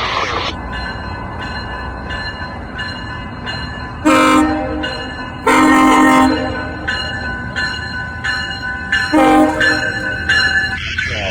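Locomotive air horn sounding three blasts, a short one, a longer one and another short one, over a steady rumble of a passing train.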